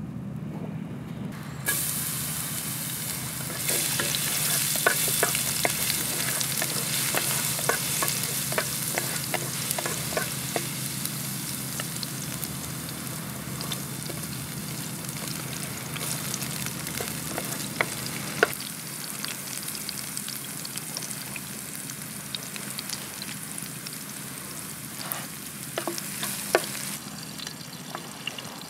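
Chopped garlic and red chilli sizzling in hot oil in a frying pan. The sizzle starts suddenly about two seconds in, with scattered crackling pops and taps as it is stirred with a wooden spatula, and eases near the end.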